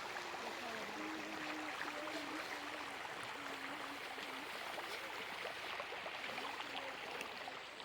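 Water running in a stream: a steady rushing that holds even throughout.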